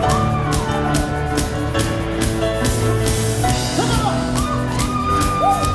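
Live worship band playing a rock-style song with a steady drum beat, with long held, gliding lead notes over it.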